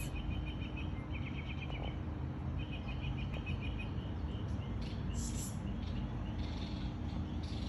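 Small songbirds chirping and trilling: a rapid pulsed trill in the first couple of seconds and again briefly, then scattered high chirps, over steady background noise.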